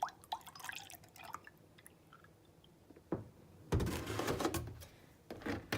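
Milk being poured into a mug: small clicks and knocks, then a louder stretch of liquid noise a little under four seconds in.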